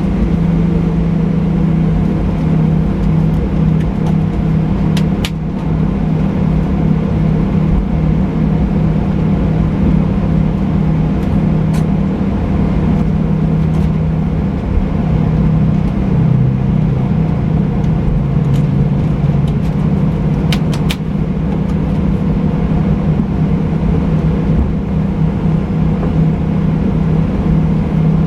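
Steady low cabin rumble inside a Boeing 737-800 on the ground before takeoff, its CFM56 engines at idle, with a deep hum that shifts slightly in pitch about halfway through. A few faint clicks come twice.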